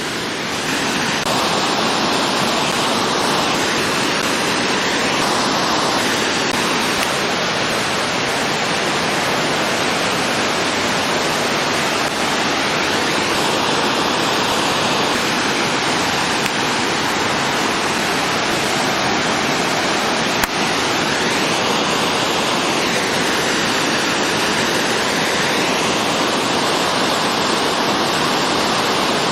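Waterfall: a loud, steady rush of falling water that never lets up.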